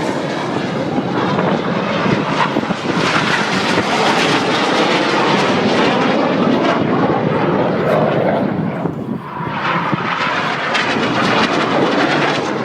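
Red Arrows BAE Hawk jets flying overhead, a loud steady jet roar that dips briefly about nine seconds in and then builds again.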